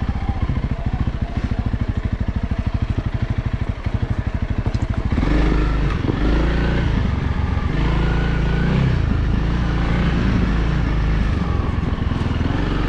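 Honda CRF300L's single-cylinder engine running at low, even revs, then louder from about five seconds in, its pitch rising and falling as the throttle is worked.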